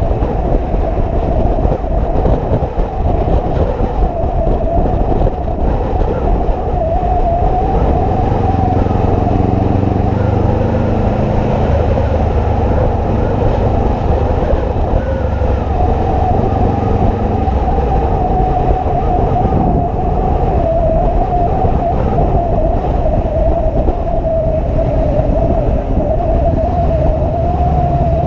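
Motorcycle running steadily while riding, its drone mixed with loud rushing noise and a wavering tone that holds near one pitch.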